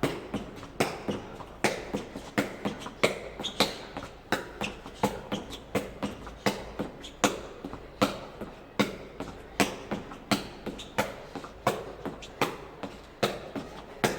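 A jegi (Korean shuttlecock) kicked over and over, each kick a sharp tap, about two to three a second in a steady rhythm.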